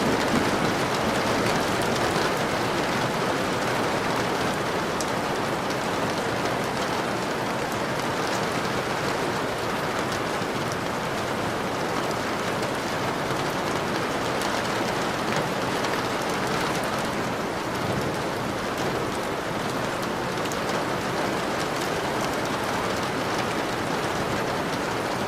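Steady rainfall: an even wash of rain with many small drops pattering on a surface, no thunder.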